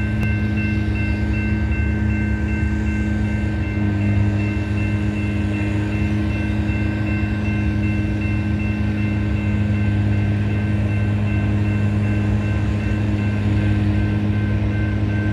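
A train at an active railroad grade crossing: a steady, loud low engine drone like a diesel locomotive, with the crossing's warning bell ringing as a steady high tone over it.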